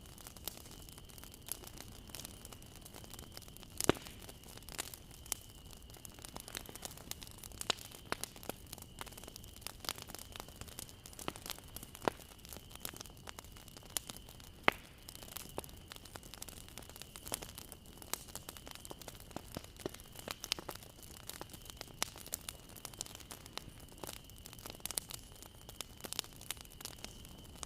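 Wood bonfire crackling: irregular small snaps and pops over a low steady hiss, with a few sharper, louder pops. A faint steady high whine sits underneath.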